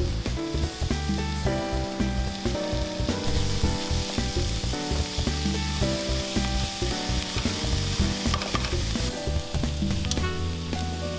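Chopped onion sizzling in a nonstick frying pan over low heat as it is stirred with a spatula, under background music with a stepping melody and bass line.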